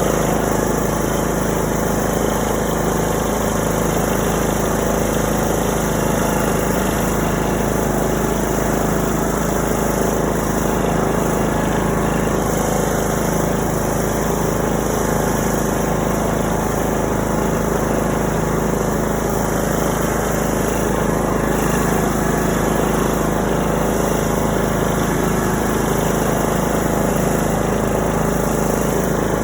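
Tractor engine running steadily under way, heard from the driver's seat.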